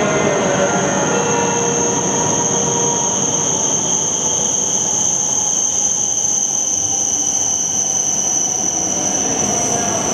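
Tohoku Shinkansen train moving along the platform: running noise with a steady high-pitched whine held throughout.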